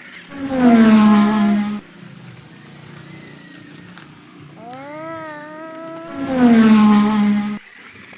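A child imitating an engine with his voice, making 'vroom' sounds while driving toy monster trucks. There are three calls: a loud one that falls in pitch about half a second in, a quieter one that rises and then falls in the middle, and another loud falling one near the end.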